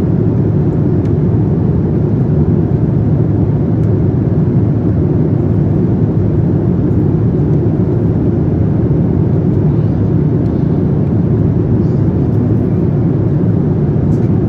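Boeing 787-9 cabin noise in flight: a steady low rumble of engines and airflow, unchanging throughout.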